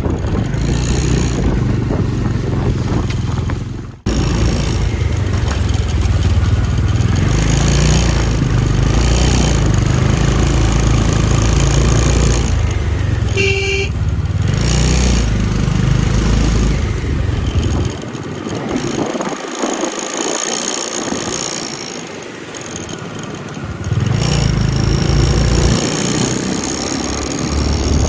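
Motorcycle riding, with engine rumble and wind noise on the microphone. A short horn beep sounds about halfway through, and the low rumble eases off for several seconds before picking up again near the end.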